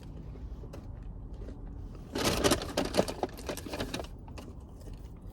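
A low steady rumble, with a burst of rustling and clicking handling noise about two seconds in that lasts around two seconds.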